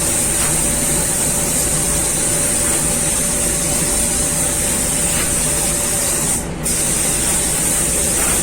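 Compressed-air paint spray gun hissing steadily as the car body is sprayed with paint, with a brief break about six and a half seconds in when the trigger is let off.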